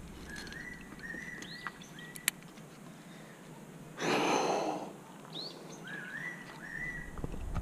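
A bird singing a short whistled phrase, a quick wavy rising note then a held note, given twice. About four seconds in there is a brief loud rush of air, with a couple of small sharp clicks earlier on.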